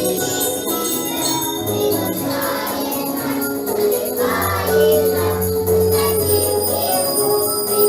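Music with jingle bells shaken along throughout, as in a children's percussion orchestra.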